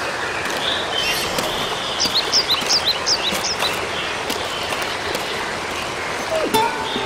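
Rural outdoor ambience: a steady hiss of background noise with a small bird giving a quick run of short, high, rising chirps about two to four seconds in.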